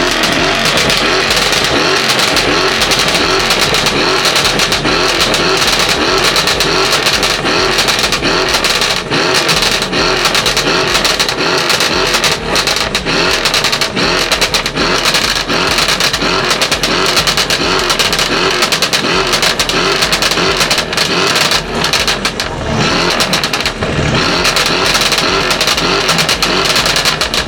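A car engine revved up and down again and again in a quick, steady rhythm, loud and sustained.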